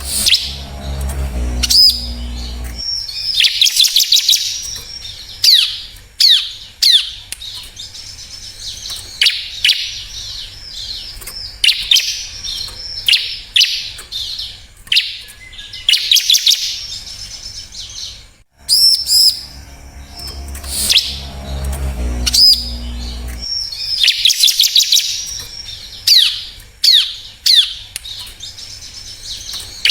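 Bar-winged prinia (ciblek) singing: rapid high-pitched chirps and short down-sweeping notes. The recording loops, breaking off briefly about 18 seconds in and starting the same passage again. A low rumble runs under the song at the start of each pass.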